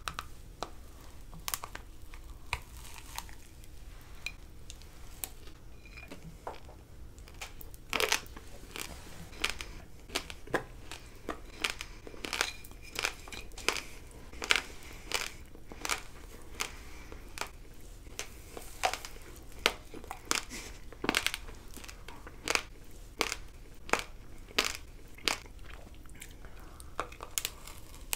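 Close-miked crunching and chewing of an edible hair brush: a quick run of sharp, crisp crunches that grows denser and louder from about eight seconds in.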